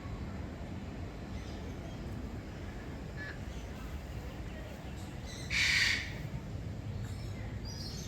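A bird gives one loud, harsh call about half a second long, a little after the middle. A few faint short chirps come before and after it over a steady low background rumble.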